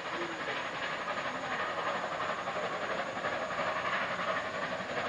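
Passenger cars of a steam excursion train rolling away on the track: a steady hiss of wheel-on-rail noise.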